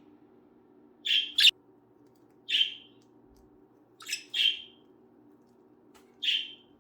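Budgerigars giving short chirps, about six spaced over a few seconds.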